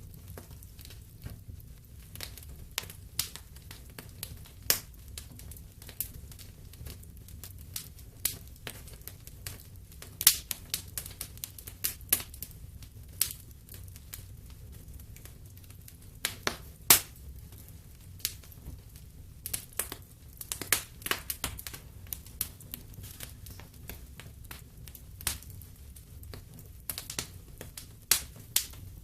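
Wood fire burning in a fireplace, crackling with irregular sharp pops over a low steady rumble of flame.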